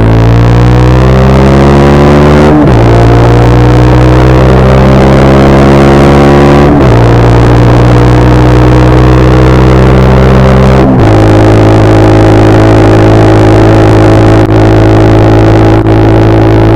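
Brixton Cromwell 125's single-cylinder four-stroke engine through an Arrow exhaust, pulling up through the gears. The pitch climbs steadily and drops at three gear changes, about two and a half, seven and eleven seconds in, then holds nearly steady.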